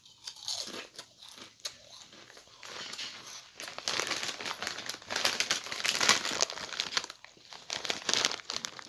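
Crinkling of a Lay's potato chip bag being handled. It is faint at first, then louder and denser from about three seconds in, loudest around the middle and again near the end.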